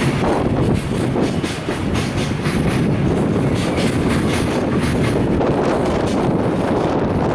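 Container freight train of Koki flat wagons rolling past, with a steady rumble and wheels clattering over the rail joints.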